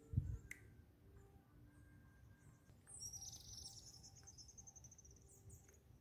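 A bird sings a rapid, high-pitched trill of many quick notes lasting about two and a half seconds, starting about three seconds in. A brief low thump sounds just at the start.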